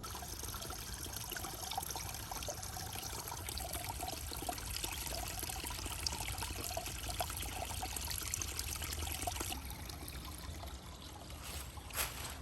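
Water trickling and splashing with many small drips, starting suddenly and thinning out near the end, followed by a couple of sharp knocks.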